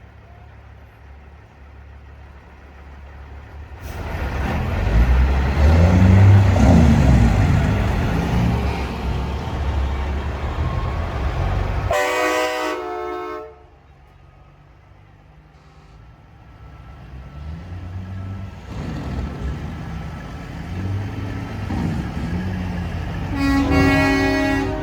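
Semi trucks driving past one after another, their diesel engines swelling loud and fading. One truck gives a short horn blast just before it passes, and the next sounds its horn near the end.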